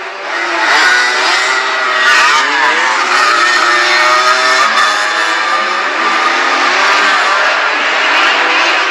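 125cc motocross bikes racing, several engines revving up and down at once over one another.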